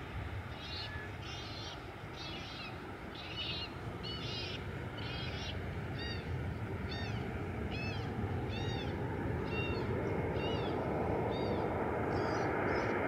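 A bird calling over and over, about one short call a second: the first calls harsh and buzzy, the later ones clearer rising-and-falling notes. A steady low rumble runs underneath and grows a little louder near the end.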